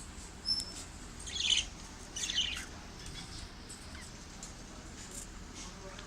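Budgerigars calling: a short high whistle followed by two brief bursts of chirping chatter within the first few seconds.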